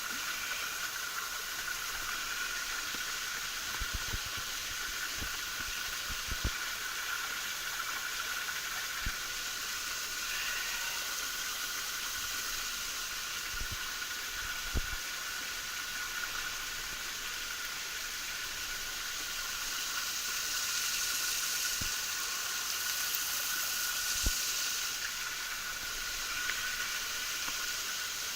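Small waterfall's water falling and splashing in a steady hiss-like rush, with a few soft low knocks.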